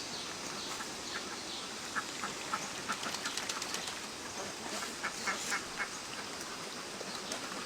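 A flock of ducks quacking, many short overlapping calls that come thickest about two to four seconds in and again around five seconds in.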